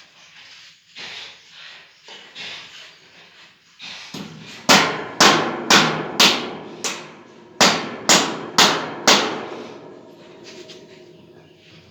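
Hammer blows: about nine sharp strikes with a ringing tail, roughly two a second, starting about four seconds in after some softer scraping strokes.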